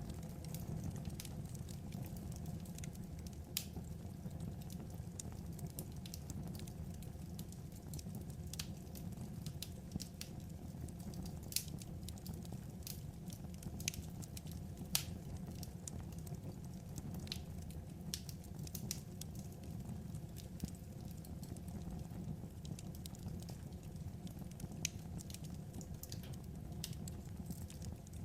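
Burning firewood crackling: irregular sharp pops and snaps over a steady low rumble, with a few louder pops now and then.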